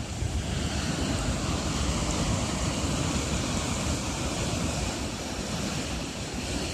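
Atlantic surf pounding against a volcanic cliff, a continuous rush of breaking waves, with strong wind buffeting the microphone.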